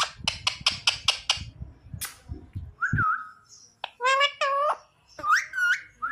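Pet parrot calling: a run of about six quick clicks in the first second or so, a short whistle-like call about three seconds in, then a string of short pitched calls that bend up and down from about four seconds in.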